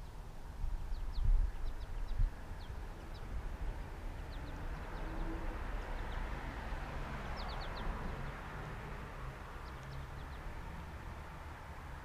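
Small birds at a feeder giving short, high chirps, scattered singly and in quick little runs, over a low rumble. A broad hiss swells through the middle and fades.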